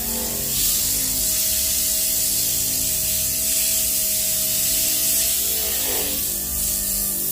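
Steady hiss under background music with long held notes.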